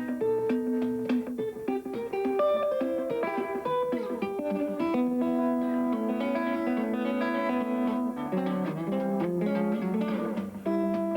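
Guitar played in the Muhlenberg County thumbpicking style: a picked melody over lower bass notes.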